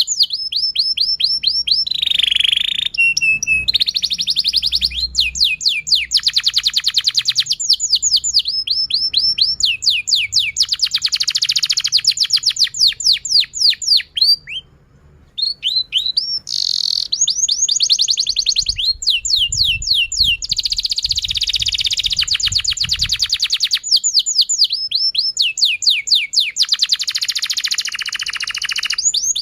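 Domestic canary singing a long, continuous song of fast trills, rapid repeated sweeping notes changing from phrase to phrase, with a brief pause about halfway through.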